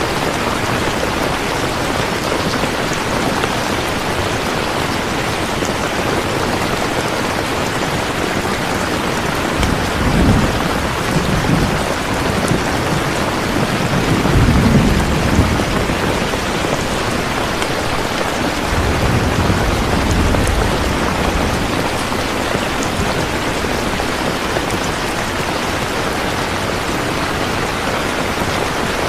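Steady heavy rain with low rolls of distant thunder: a short one about ten seconds in, a longer one about halfway through, and a softer one about two-thirds through.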